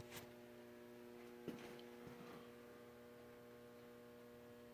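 Near silence: a faint steady electrical hum, with a couple of faint clicks.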